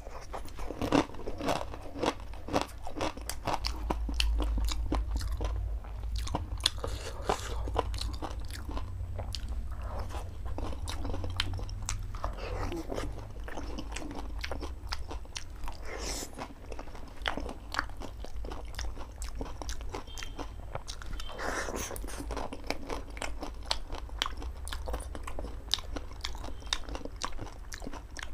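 Dahi puri being bitten and chewed close to the microphone: the crisp puri shells crunch with many small crackles in quick succession. A steady low hum runs underneath.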